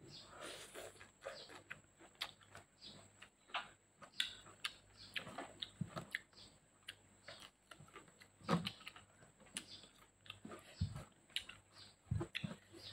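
A person eating with her fingers: chewing a mouthful of boiled papaya leaves, with irregular wet mouth clicks and smacks and a few soft low thumps from handling the grilled chicken on the plate.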